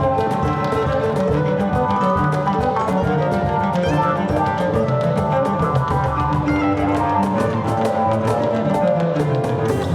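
Live acoustic band playing an instrumental passage: cello, guitar and mandolin over percussion, with dense short percussive strikes under sustained string notes.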